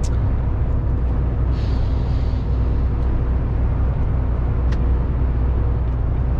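Steady low drone of a lorry's engine and road noise inside the cab while driving at motorway speed, with a short hiss about two seconds in.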